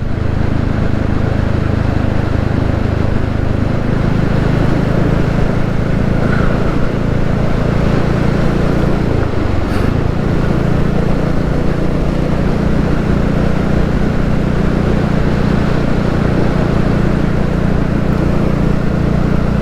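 Royal Enfield Classic 350's single-cylinder engine running steadily at road speed, with wind noise over the microphone. About nine seconds in the engine note dips briefly, then settles back.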